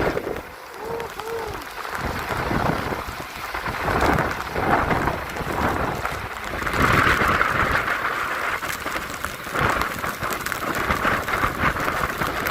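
Heavy thunderstorm downpour with strong wind gusts, rain pelting down and the noise surging and easing as the gusts come and go.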